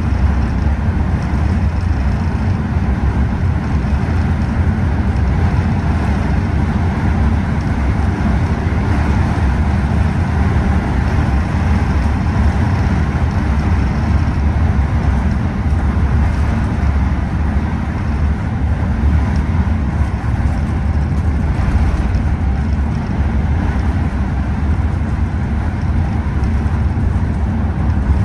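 Scania OmniExpress express coach driving at a steady speed: a constant low engine rumble with road noise over it.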